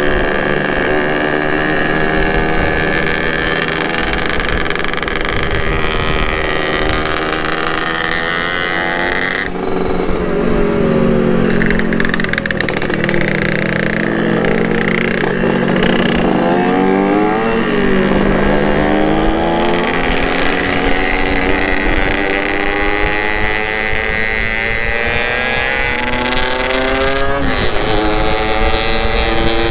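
Yamaha RX-King's two-stroke motorcycle engine running while riding, its pitch rising and falling with the throttle, with a sudden change about nine seconds in.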